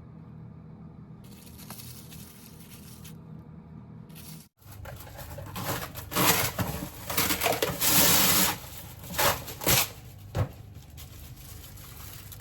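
Irregular bursts of rustling and tearing, loudest from about six to ten and a half seconds in, over a steady low hum.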